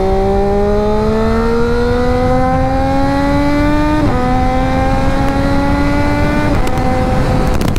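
Sport motorcycle engine under way, its pitch climbing steadily as the bike accelerates. There are two upshifts, about four and six and a half seconds in, and after the second it holds a steady cruising note.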